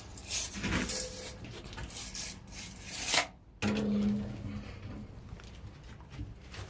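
Rubbing and scraping handling noise, with a louder rasping sweep about three seconds in that cuts off abruptly, followed by a brief low hum.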